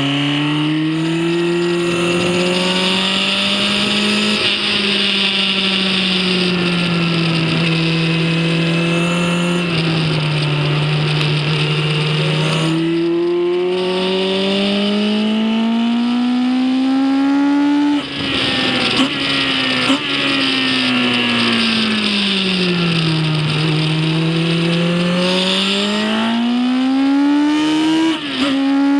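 Racing vehicle engine at speed on a circuit, heard onboard. The engine note climbs and falls in long sweeps as it accelerates and slows for corners. The note breaks off sharply and drops twice, once about eighteen seconds in and again near the end.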